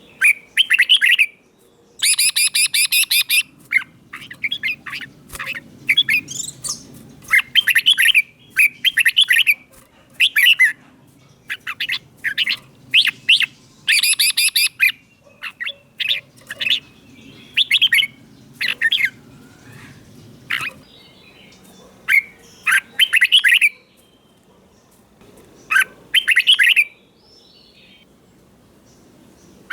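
Red-whiskered bulbul singing: short, bright whistled phrases repeated every second or two with brief gaps, a few of them with harsher, buzzier notes.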